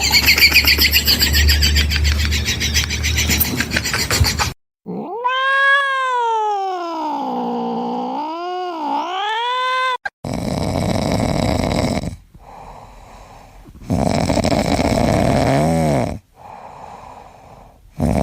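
A cat's long, wavering yowl of about five seconds, sliding down in pitch and back up with a dip near the end, followed later by a short meow-like call. The sounds are separated by stretches of unidentified background noise between clips.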